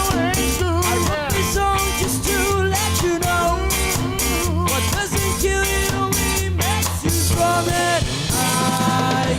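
Ska band playing an upbeat song: a walking bass line under evenly spaced offbeat chords, with a bending lead melody line on top.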